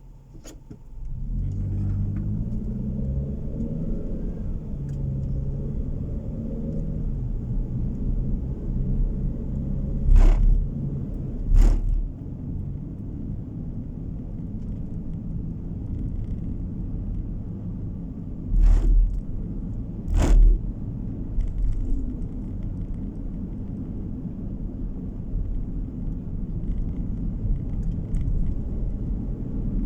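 A car pulling away and accelerating, its engine note rising over the first few seconds, then a steady low road and tyre rumble heard from inside the car. Two pairs of loud thumps, about ten and nineteen seconds in, as the wheels go over bumps in the road.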